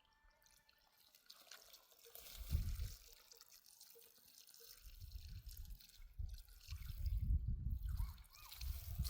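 Water trickling and running, as in irrigation water flowing around the trees, with low rumbling that grows louder in the second half.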